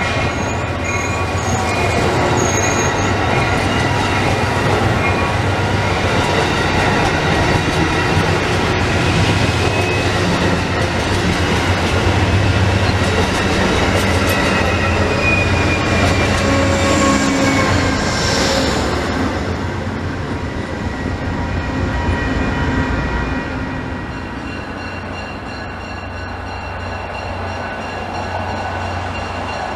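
A train rolling past on steel rails, its wheels squealing in several high held tones over a steady low rumble; it grows quieter over the last several seconds as it moves off.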